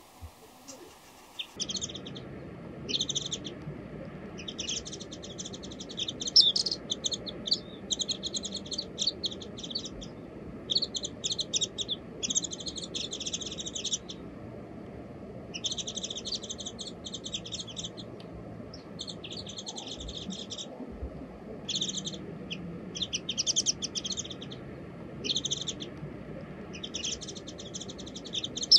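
Small songbirds chirping in rapid, chattering bouts of a second or two each, with short pauses between them, starting about a second and a half in.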